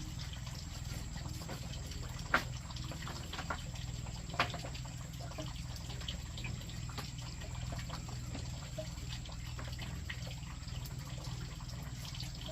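Rainwater dripping, scattered drops over a steady low hum, with two louder drops about two and a half and four and a half seconds in.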